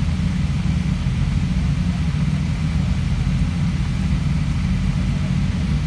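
Rally car engine idling steadily: a low, even rumble with no revving.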